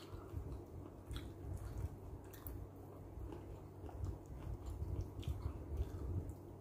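A person chewing a mouthful of food close to the microphone: a quick run of soft low jaw thuds with small wet clicks, starting at once and easing off near the end.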